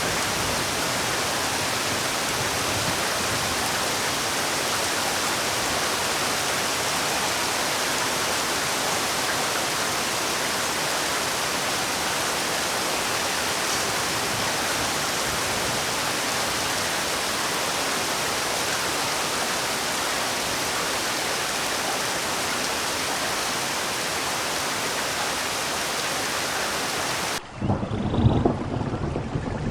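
Heavy, steady rainfall, an even dense hiss. Near the end it cuts suddenly to a different recording with loud, uneven low rumbling.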